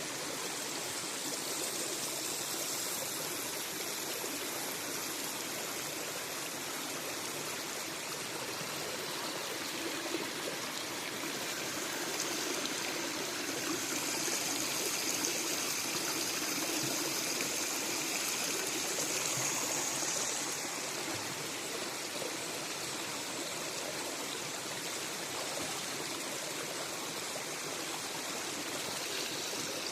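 River water running steadily, growing a little louder and hissier for several seconds midway.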